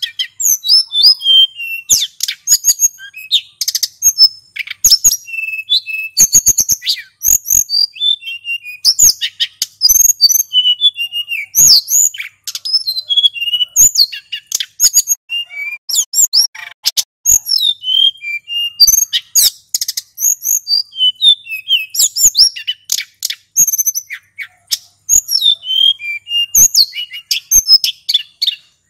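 Male hill blue flycatcher (sulingan gunung) singing a long, unbroken run of quick, sliding whistled phrases, one after another without pause.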